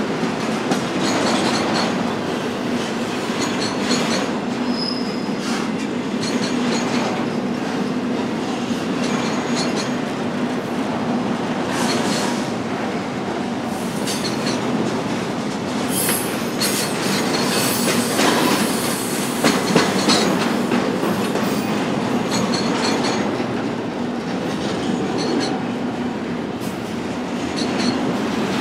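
Freight train cars rolling past on the rails: a steady rumble with wheels clicking over rail joints and brief, repeated high wheel squeals.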